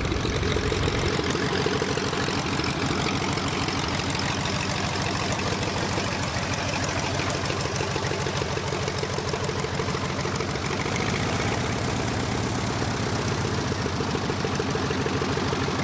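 1940 Harlow light airplane's piston engine and propeller running at low taxi power, a steady engine sound with fast, even firing pulses.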